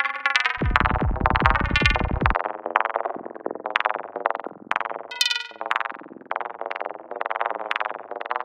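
Software modular synthesizer (VCV Rack) patch playing a fast run of short, bright, plucky psytrance effect notes that change in pitch. A deep bass tone sounds beneath them from about half a second in until about two and a half seconds.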